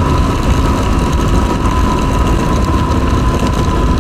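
Yamaha WR250R's 250 cc single-cylinder engine running at road speed, heavily covered by wind rush on the helmet-mounted mic, with a steady high whine throughout.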